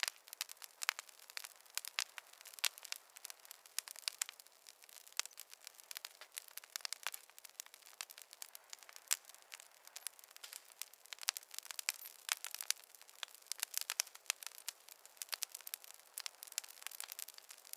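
Fireplace fire crackling: a dense, irregular run of sharp pops and snaps of varying loudness, with no low roar beneath them.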